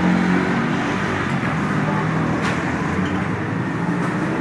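A motor vehicle engine running steadily, a pitched hum that shifts a little in pitch now and then.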